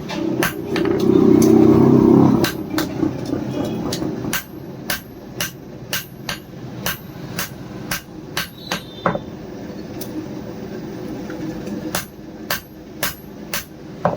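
Hand hammer striking steel on an anvil, about two blows a second, as the blade is forged. A louder, rougher noise sits under the first two seconds.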